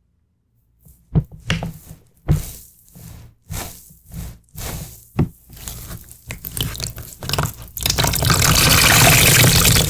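Water splashing and dripping in a string of separate splashes, then a steady stream of running water from about eight seconds in.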